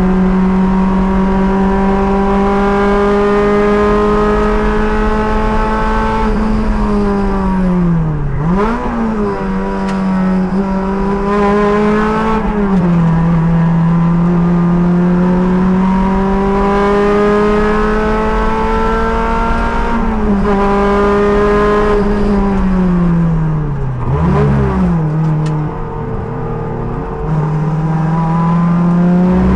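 Sports car engine at full throttle in a race, revs climbing slowly through long pulls. Twice the driver lifts and brakes, with quick throttle blips on the downshifts, then accelerates again, and there are smaller lifts between.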